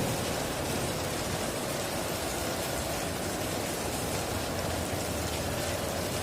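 Heavy rain falling steadily, an even hiss, as the tail of a thunder rumble dies away at the start.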